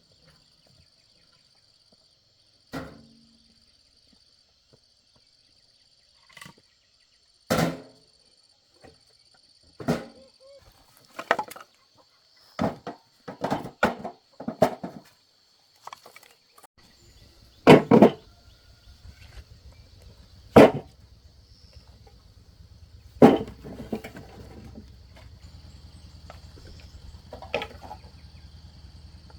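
Irregular sharp knocks and thuds, about fifteen in all and some in quick pairs and runs, typical of hammering and handling wood while building a gate. A steady high insect whine runs underneath, and a low hum comes in about halfway.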